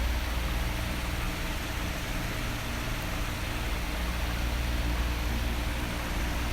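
Electric fan running steadily: an even rush of air from the blades over a low motor hum.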